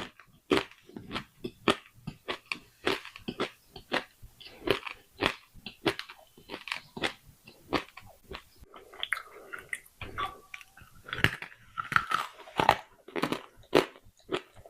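Close-miked crunching and chewing of pieces of clay pot being bitten and ground between the teeth, sharp crunches coming two or three a second.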